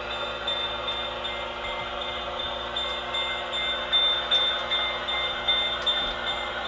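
Model train running on the layout: a steady rolling noise with a faint high tone that pulses on and off several times a second, and a few light clicks.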